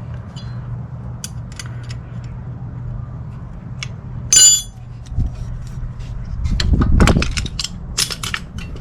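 Clinks and knocks of tools and steel brake parts being handled during a rear brake job, over a steady low hum. There is one short ringing metal clink about halfway through, a heavier clunk a little after, and a quick run of sharp clicks near the end.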